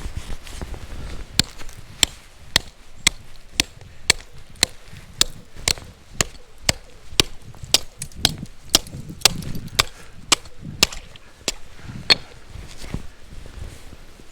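A hand tool chopping a hole through frozen lake ice, about twenty sharp strikes at roughly two a second; the ice is about 2.5 inches thick.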